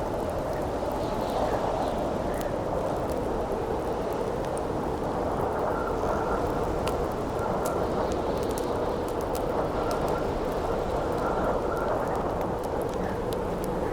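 Steady rushing wind with the scattered sharp pops and crackles of a burning wood campfire.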